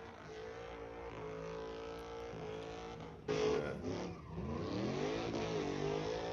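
Car engine running at high revs in a burnout pit. About three seconds in it surges much louder, its pitch dipping and then climbing back as the throttle is worked.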